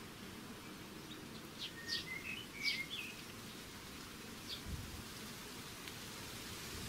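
Small birds at a seed feeder giving short, high chirps: a quick cluster about two seconds in and one more near five seconds, over a steady background hiss.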